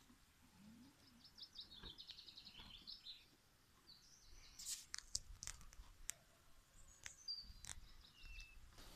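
Faint birdsong: quick runs of high chirps, with a few sharp clicks in the second half.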